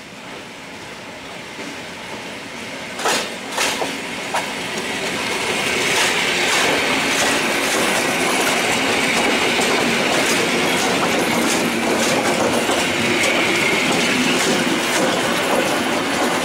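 PKP EN57 electric multiple unit running past close by, growing louder as it approaches. Its wheels hit rail joints with a few sharp clacks about three seconds in. From about six seconds it is a steady loud rail noise with repeated clacks and a high squeal over it.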